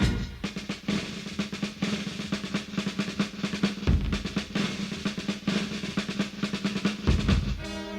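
Wind band's percussion playing a drum passage: rapid snare-drum strokes and rolls with bass-drum hits over a steady low held note. The rest of the band comes back in with pitched notes just before the end.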